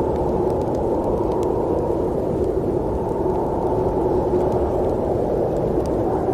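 Steady snowstorm wind: an unbroken low whooshing noise that neither gusts nor fades, with a few faint clicks.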